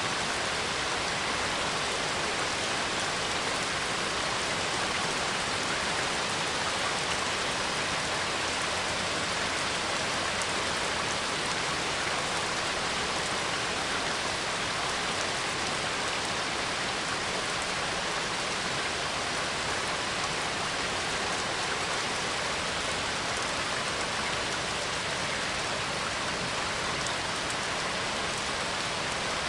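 Steady rain falling, an even dense hiss of many drops hitting surfaces, with no thunder or distinct splashes.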